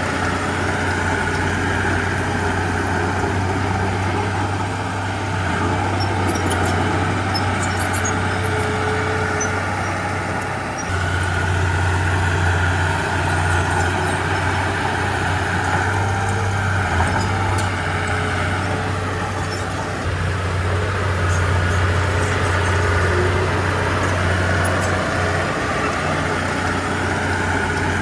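Diesel engine of a Komatsu D31P crawler bulldozer running steadily at working speed, its level dipping briefly about ten seconds in before picking up again, with faint light clinks in between.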